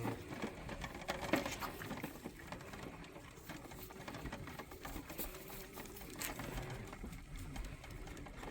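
Lambs sucking at the teats of a lamb bottle feeder: faint, irregular small clicks and knocks.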